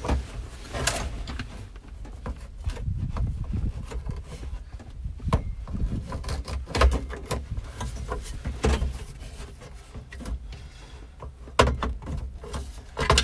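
Irregular knocks, clicks and scraping from hands working a heater/AC duct piece into place under a truck dashboard, with a low rumble of handling noise throughout.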